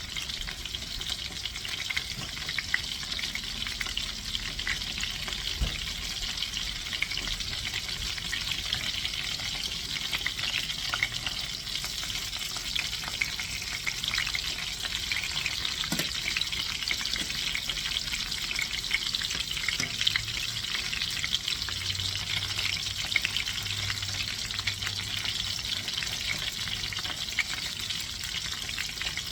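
Chicken thighs frying in butter and oil in a pan: a steady sizzle with many small crackles.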